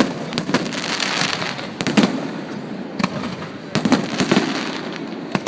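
Fireworks going off in quick clusters of sharp bangs about every one to two seconds, with crackling and sizzling between the reports.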